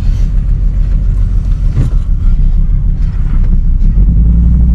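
Used Volvo car's engine and road noise heard from inside the cabin as it drives off: a steady low rumble that grows louder about four seconds in.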